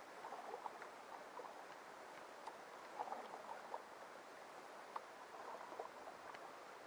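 Faint water sounds of a canoe being paddled: scattered small drips and splashes with a few light knocks, most of them in the first half.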